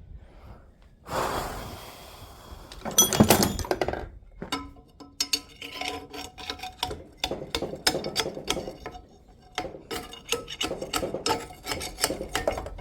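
Metal tapping and scraping as a split old bushing is driven out of its bore: a scraping rasp about a second in, a loud clatter around three seconds, then a long run of quick sharp taps, some with a faint metallic ring.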